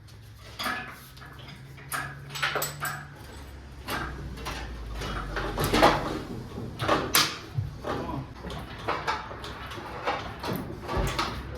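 Irregular metal clanks, knocks and creaks as a Ford 351 V8 hanging from an engine hoist is worked loose in the engine bay, over a steady low hum.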